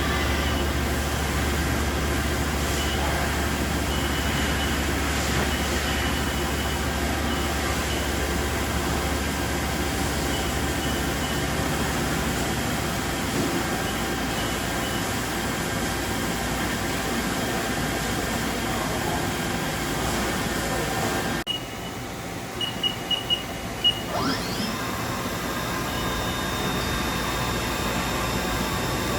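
Haas VF4 vertical machining center running with a steady mechanical hum and several held tones. About three quarters of the way through the noise drops, a few short high beeps sound, and then a whine rises in pitch and settles into a steady high tone.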